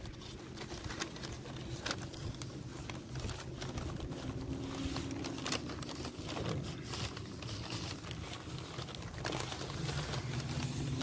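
A person chewing a bite of a veggie wrap close to the microphone, with irregular small mouth clicks over a steady low hum.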